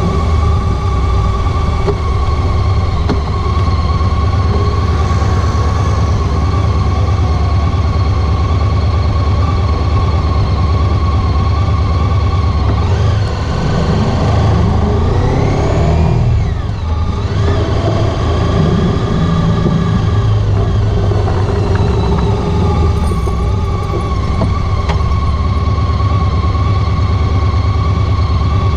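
Honda ST1300 Pan European's V4 engine running on the move, a steady drone with a low rumble. About halfway through, the engine note drops and then climbs again as the bike slows and picks up speed.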